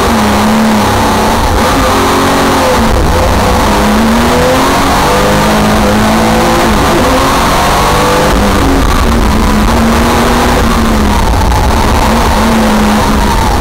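Porsche 914/6's air-cooled flat-six engine heard from the cockpit, loud throughout and revving hard up and down over and over as the car accelerates, lifts and shifts through an autocross course.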